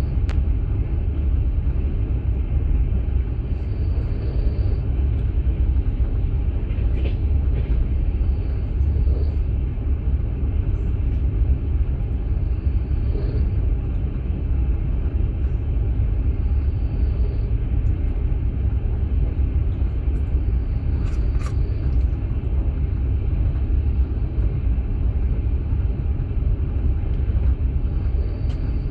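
Interior of a moving passenger sleeping carriage: a steady low rumble of the wheels and running gear on the rails, with a couple of faint brief knocks about a third of the way and two-thirds of the way through.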